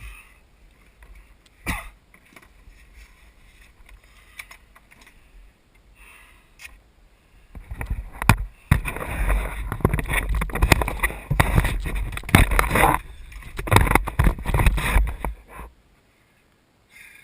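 Leaves and branches scraping and rustling against a body-worn camera's microphone as someone pushes through thick forest undergrowth. There is one sharp knock early, then dense crackling and rubbing noise with a low rumble from about halfway through, stopping shortly before the end.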